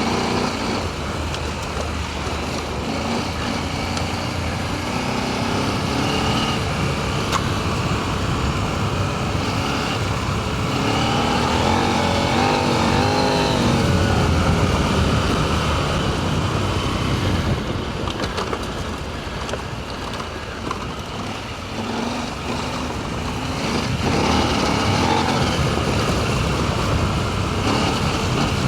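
Adventure motorcycle engine running on a dirt trail descent, its pitch rising and falling as the throttle opens and closes, under a steady rush of wind and tyre noise.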